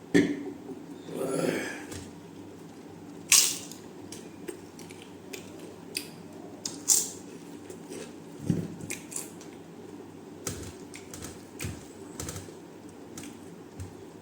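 Close-miked eating sounds: a string of irregular clicks, crunches and wet smacks from chewing and handling food, with a brief swishing rustle about a second in.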